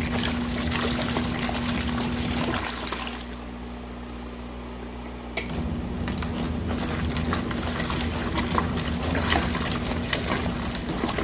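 Small washing machine tub with water pouring and splashing in, during a cool-down fill that brings the hot wash water down. Over a steady motor hum, the water noise drops away about two and a half seconds in and comes back with a click a few seconds later.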